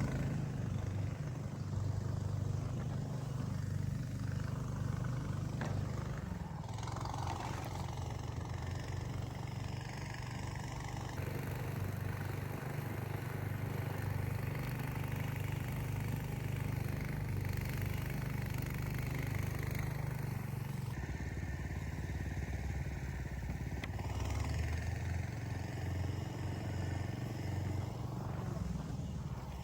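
A motor vehicle engine running steadily at a low drone, its pitch and tone shifting abruptly a few times.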